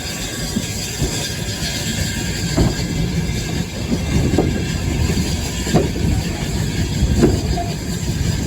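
Riding in a railway carriage hauled by a steam train: a steady low rumble of the coach rolling along the track, with sharp knocks every second or two as the wheels run over rail joints.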